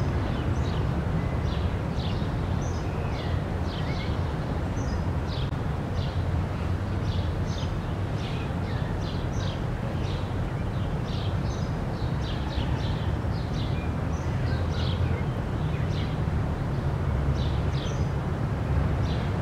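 Outdoor ambience: birds chirping over and over in short, high calls above a steady low rumble of traffic.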